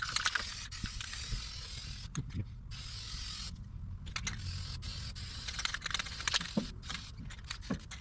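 Aerosol spray-paint can hissing in short bursts that stop and start several times, with scattered clicks and knocks from handling.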